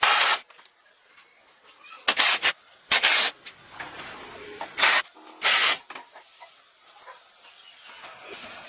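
About five short, loud bursts of hissing within the first six seconds, each under half a second long, followed by quieter low-level noise.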